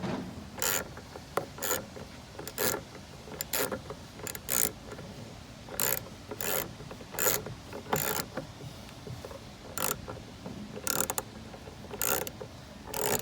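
Hand ratchet worked in short, irregular strokes, each back-swing a brief burst of clicking from the pawl.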